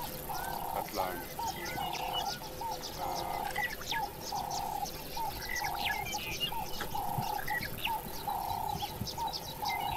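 Birds calling: one bird repeats a short call about every second and a bit, with small hooked notes between, while other birds chirp quickly above it.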